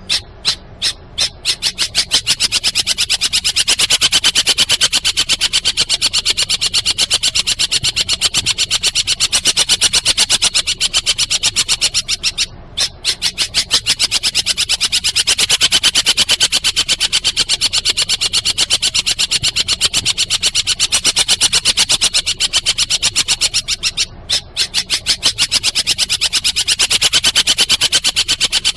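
Masteran recording of the shrill 'kuntilanak' call, played for songbirds to learn. It opens as separate chirps about four a second, quickly speeds into a fast, unbroken run of high pulses, and stops briefly twice before starting up again.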